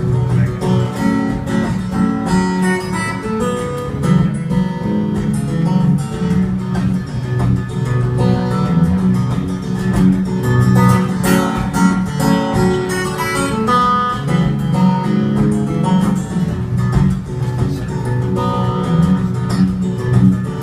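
Acoustic guitar playing a song's instrumental introduction, plucked notes over a low repeating bass line, before the vocal comes in.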